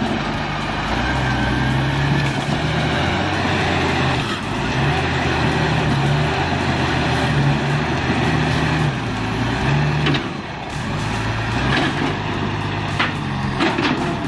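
Heavy diesel machinery running hard, with a deep engine note that rises and falls in steps and several sharp cracks in the last few seconds.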